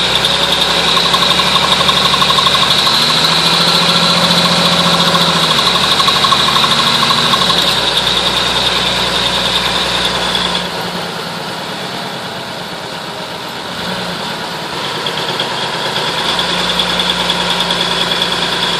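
Cummins six-cylinder diesel of an M931 5-ton military truck running, with a high steady whine over the engine note. The sound drops off about eleven seconds in, then builds again a few seconds later.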